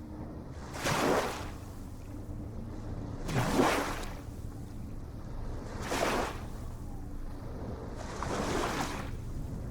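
Ocean waves washing in, four surges of hiss about every two and a half seconds, over a steady low rumble.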